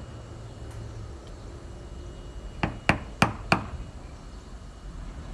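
Four sharp metal taps in quick succession about halfway through: a hammer striking a screwdriver used as a chisel, working open the end gland of a Toyota forklift's hydraulic cylinder.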